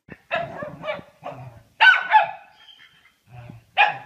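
A dog barking: a string of short barks, the loudest pair about two seconds in and another just before the end.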